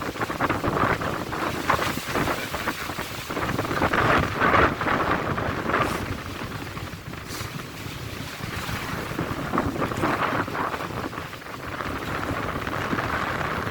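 Strong wind gusting, buffeting the microphone, with rain falling. The gusts swell loudest about four to five seconds in, then ease off.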